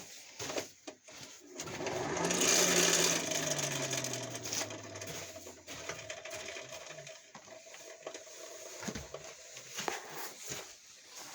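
Hand-cranked forge blower whirring: it is spun up hard about two seconds in, then its pitch falls steadily as the fan coasts down. It is blowing air through the coals to reheat the iron piece for waxing.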